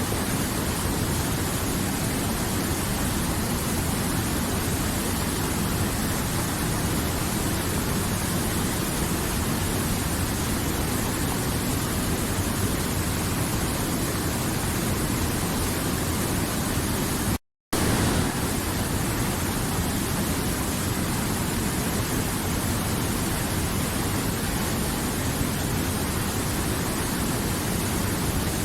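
River water flowing with a steady, even rush. The sound cuts to silence for a fraction of a second about two-thirds of the way through, then resumes unchanged.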